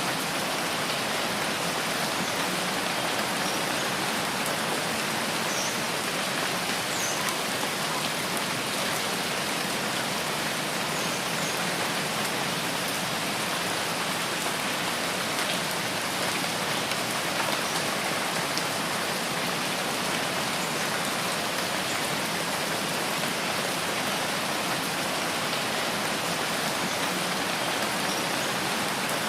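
Steady rainforest rain, an even hiss of rain falling on foliage, with a few faint, brief high chirps now and then.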